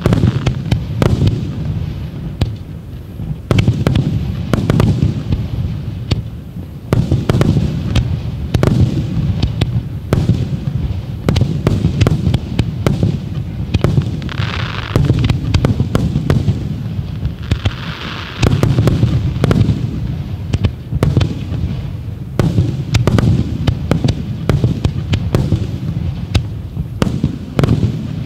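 A starmine firework barrage: shells launching and bursting in rapid, overlapping succession, many sharp bangs a second over a continuous rumble.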